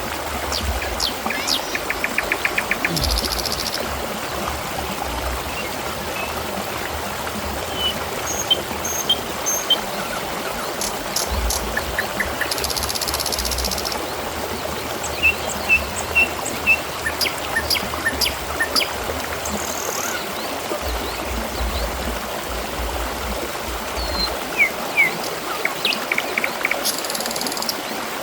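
Water trickling and splashing steadily, as from a small stream or fountain, with scattered short bird chirps and trills over it. A low rumble comes and goes underneath.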